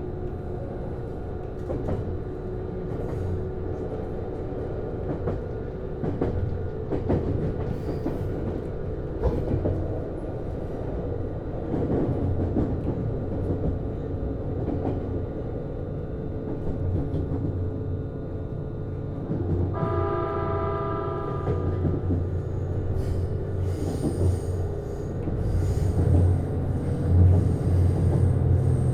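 Interior running sound of a JR East Series HB-E210 hybrid railcar: the Komatsu DMF15HZB-G diesel generator engine and Hitachi IGBT-VVVF traction motors hum steadily under rumble and wheel clicks on the rails. About twenty seconds in, a horn sounds for about two seconds. The running grows louder near the end.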